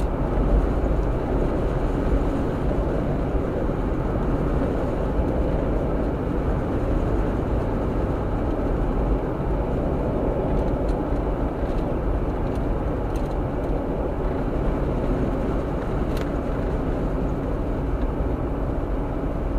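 Steady drive noise of a Jeep heard from inside: engine and tyre rumble, even and unbroken, with a couple of faint clicks partway through.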